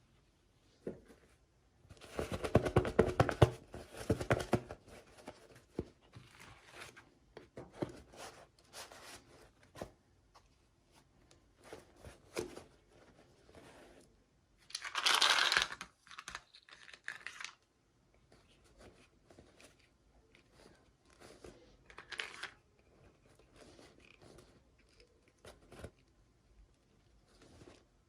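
Toy packaging being opened by hand: a loud spell of crackling and crinkling about two seconds in, a short tearing sound around the middle, and scattered small clicks and rustles between.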